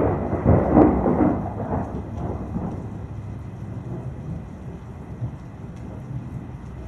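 Thunder cracking in loudly at the start, peaking about a second in, then rolling and fading away over the next few seconds, with steady rain falling throughout.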